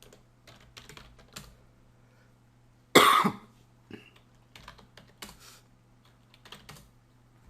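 Computer keyboard typing in scattered short runs of keystrokes, with one loud cough about three seconds in.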